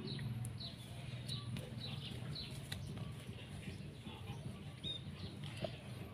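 A small bird chirping over and over, short falling chirps about twice a second, over a steady low hum, with a few faint taps.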